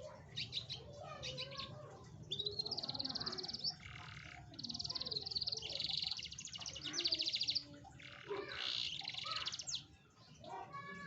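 Canary singing: phrases of fast trills, rapidly repeated high notes in rolls, broken by short chirps and pauses. It is a lure song of the kind played to make a quiet canary start singing.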